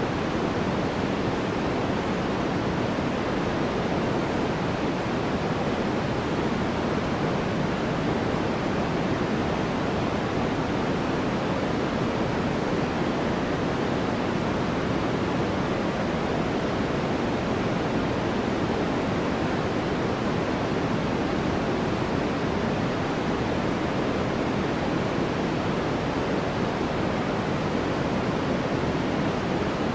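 Steady, unchanging white noise played as a sleep sound, an even hiss weighted toward the lower range, closer to pink noise than a bright hiss.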